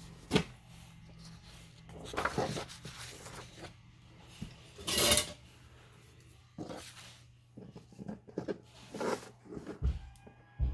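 Sheets of craft paper being handled and shuffled: a string of short rustles and slides, the loudest about five seconds in, with a couple of soft low thumps near the end.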